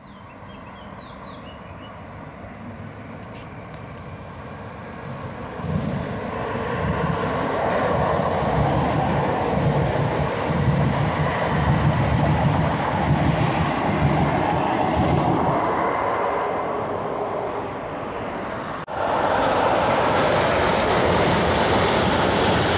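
A regional passenger train approaches and passes close by, growing louder over the first few seconds into a steady rolling rumble of wheels on rail with a rhythmic low beat. After an abrupt break near the end, a freight train of tank wagons rolls past with a steady, brighter rolling noise.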